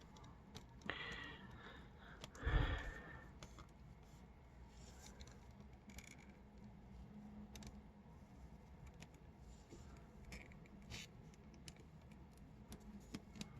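Faint clicks and scrapes of plastic action-figure parts being handled and fitted together, with one louder bump about two and a half seconds in.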